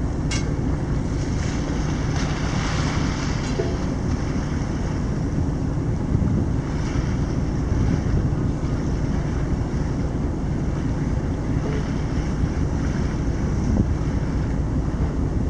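Steady wind buffeting the microphone on a boat, over the low, even run of the boat's engine and the wash of water.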